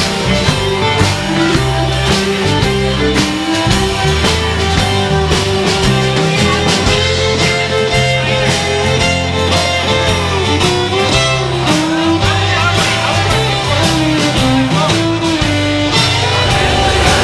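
Rock-and-roll band music: a lead melody over a stepping bass line and a steady drum beat.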